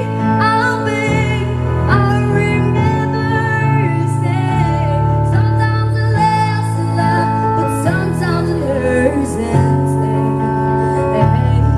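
A pop song: a woman's singing voice over a backing of sustained bass notes that change every second or two.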